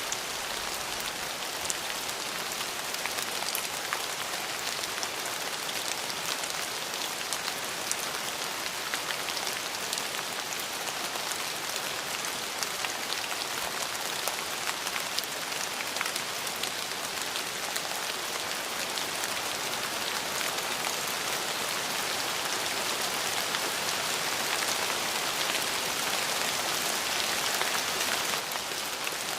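Steady rain falling, the patter of many drops hitting a surface.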